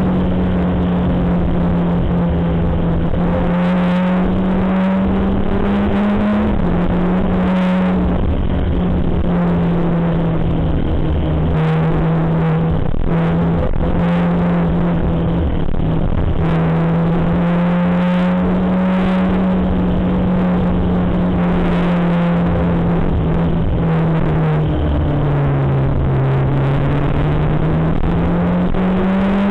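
Motorcycle engine running under way, its pitch rising and falling slowly as the throttle changes, over steady wind and road rush. The pitch dips about three-quarters of the way through, then climbs again near the end.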